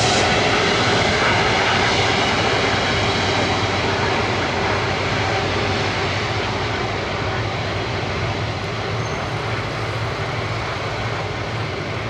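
Jet engine noise of an Airbus A330-243 with Rolls-Royce Trent 700 turbofans: a steady rushing rumble that slowly fades.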